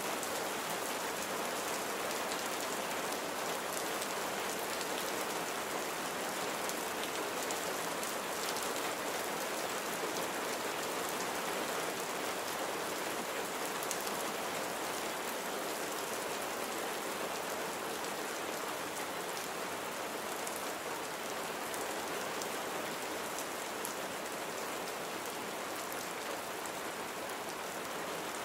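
Steady rain falling, an even hiss with fine patter of drops striking a surface.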